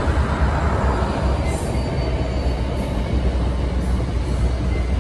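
Diesel-hauled NJ Transit passenger train rolling slowly past as it comes into the station, a steady low rumble of locomotive and cars with faint high wheel squeal. A car's tyres hiss past on the road near the start.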